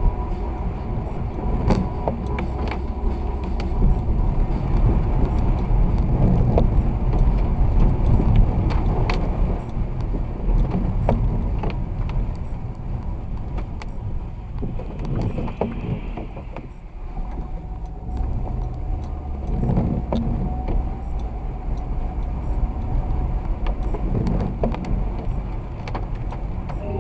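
Car driving on a snowy road: a steady low rumble of engine and tyres, with scattered light clicks and knocks.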